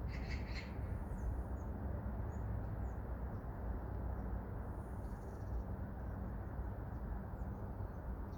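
Steady low rumble with small birds chirping faintly here and there, and a brief cluster of chirps right at the start.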